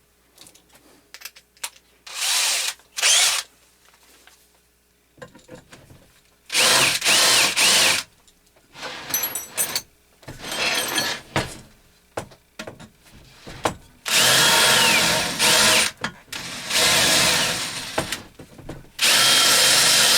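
Handheld electric drill boring a hole through metal, run in about six short bursts as the trigger is squeezed and released, the motor's whine rising as it spins up and falling as it slows. This is a bolt hole being drilled out to size.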